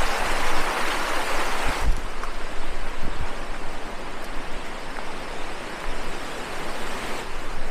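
Creek water rushing steadily, an even rush, a little softer after about two seconds in.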